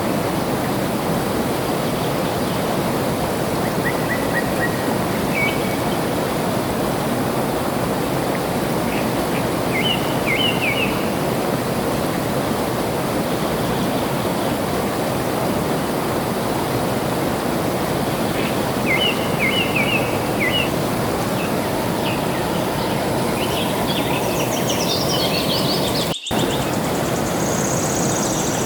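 Flowing water rushing steadily, with small birds chirping in short bursts several times. The sound drops out for an instant near the end.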